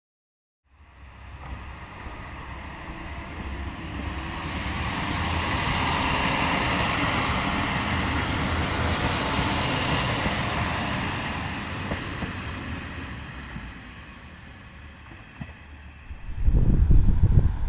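Sanriku Railway diesel railcar passing by, its sound swelling to a peak about six to ten seconds in and then fading away. Near the end, strong wind gusts buffet the microphone.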